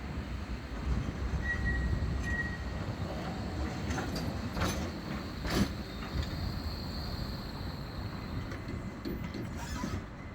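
Bombardier Flexity 2 tram running on street track: a steady low rumble, two sharp clicks over rail joints around the middle, then a thin high wheel squeal for a couple of seconds.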